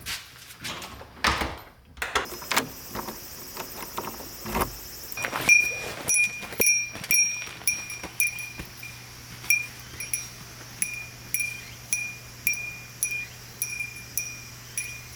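A small metal bell ringing about twice a second in an even rhythm, starting about five seconds in. Scattered knocks come before it.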